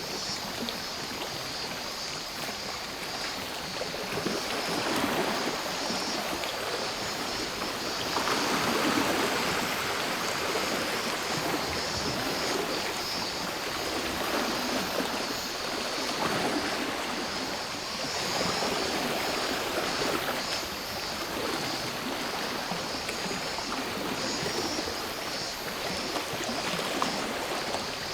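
Sea waves washing onto the shore, swelling and falling back every few seconds, with a steady high chorus of cicadas running over them.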